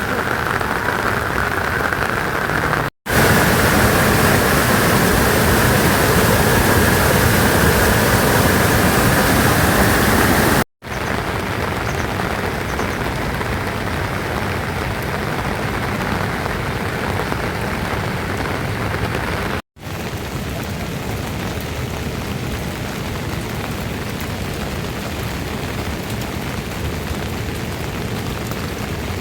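Steady rain falling, heard in four stretches separated by very brief silent gaps at cuts; the second stretch is the loudest.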